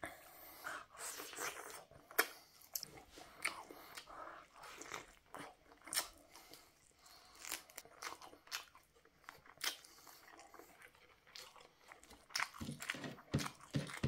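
A person chewing grilled chicken and rice close to the microphone, eating by hand: irregular sharp wet clicks and smacks, with a cluster of deeper ones near the end.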